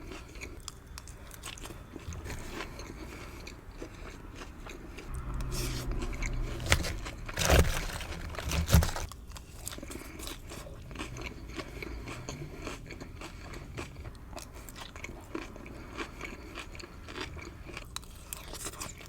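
Close-miked eating sounds of a person biting and chewing a gyro: continuous wet chewing and small crunches, with a louder stretch of bites about five to nine seconds in that holds three sharp loud crunches.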